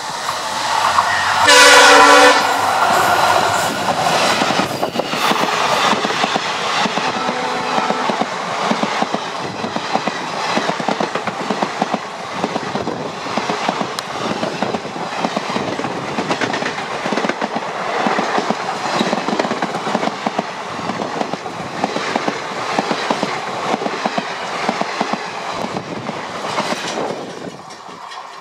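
WDG4 diesel locomotive's horn sounded loud about two seconds in as the train approaches, with a fainter horn tone after it. Then a long passing express train's wheels clatter steadily over the rail joints, falling away near the end as the last coach goes by.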